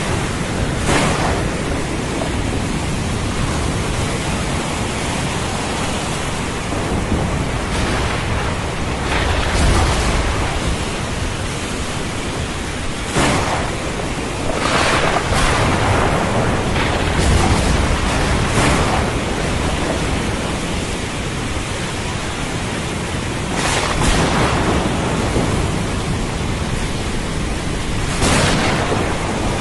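Thunderstorm over the sea: steady hiss of heavy rain and surf, with low thunder rumbling, strongest about ten and seventeen seconds in.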